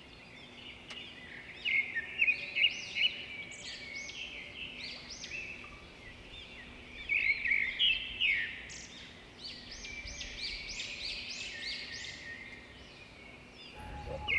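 Birds chirping and twittering in quick, repeated arched calls, busiest about two seconds in and again around seven to eight seconds, over a faint steady low hum.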